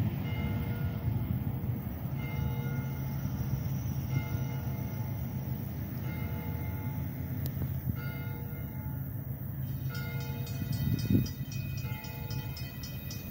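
Freight train covered hopper cars rolling past with a steady low rumble, while a railroad crossing bell rings over and over.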